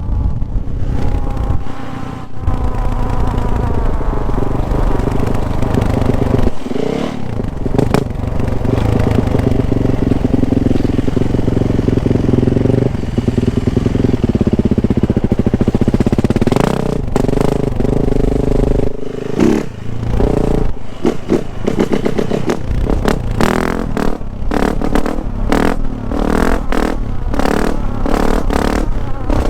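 Yamaha YZ450F single-cylinder four-stroke motocross engine running hard, its pitch rising and falling with the throttle, with brief drops in a few places. In the last several seconds it is choppy, the throttle snapping on and off rapidly.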